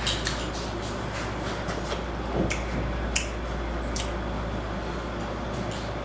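Seafood shells being cracked and handled while eating: a few scattered sharp clicks and cracks over a steady low hum.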